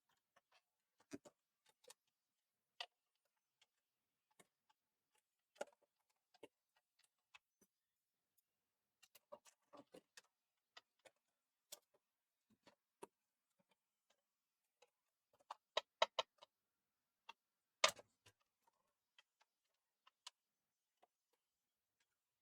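Scattered small clicks and taps of hand tools, screws and plastic parts being handled while a PlayStation 4 Slim console is taken apart, irregular and quiet, with a short run of clicks about 16 seconds in and the sharpest tap about two seconds later.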